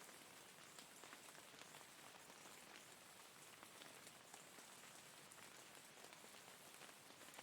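Faint, steady rain: an even hiss scattered with many small drop ticks.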